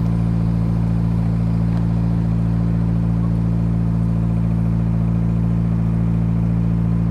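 Narrowboat's diesel engine running at a steady speed, an even low hum with no change in revs.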